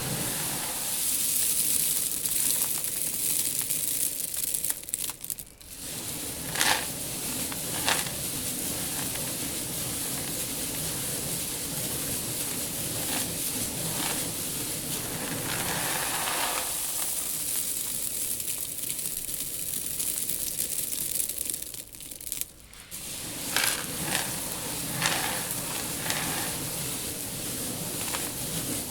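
Loose seed rustling and hissing as it is stirred and poured by hand in a seed tank, with a few sharper crackles. The flow stops briefly twice.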